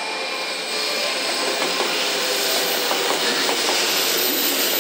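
A 500 series Shinkansen trainset rolling in alongside the platform: a steady rushing noise of wheels, motors and air that gets louder about a second in as the cars go by.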